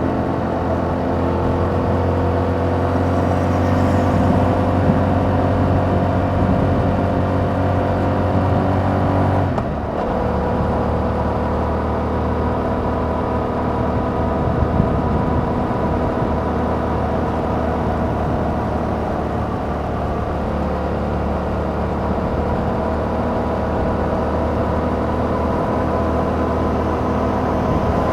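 2021 Yamaha MT-07's 689 cc parallel-twin engine running through its stock exhaust while riding, its pitch climbing slowly. A little under ten seconds in there is a short break and a drop in pitch, as from an upshift, and the engine picks up again near the end.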